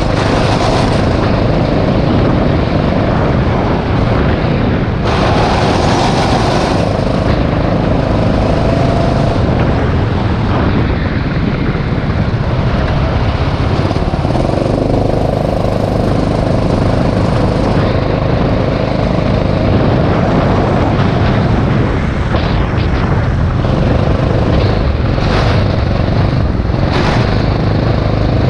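Rental go-kart engine running at speed on track, its note rising and falling with the throttle through the corners, with a brief rush of hiss about five seconds in.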